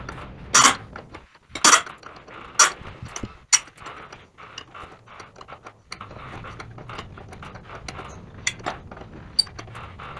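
Metal clinks and clanks from hand tools and sawmill parts being handled: four sharp loud strikes about a second apart, then lighter scattered ticks.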